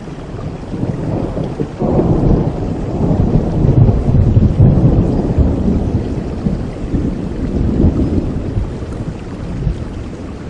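Rolling thunder over steady rain: a deep rumble breaks in suddenly about two seconds in, swells, and slowly fades away toward the end.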